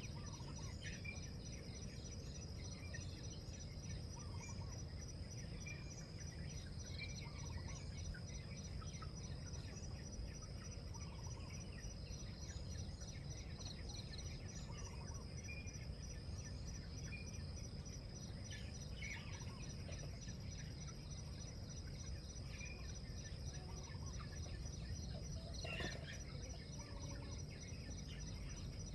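Outdoor ambience of insects trilling steadily in a high, fast-pulsing tone, with small birds chirping now and then over a low rumble. One brief sharp sound near the end.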